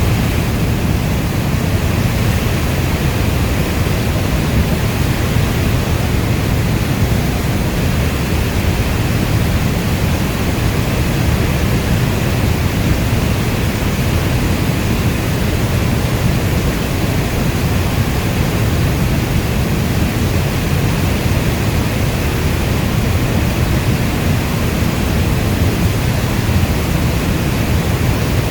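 Steady rainstorm: a dense, even rushing of rainfall with most of its weight in a deep low rumble and no single drops or claps standing out.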